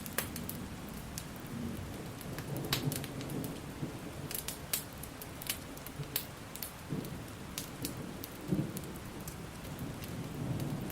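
Steady rain with a low rolling thunder rumble that swells a couple of times, and scattered sharp pops from a crackling wood fire.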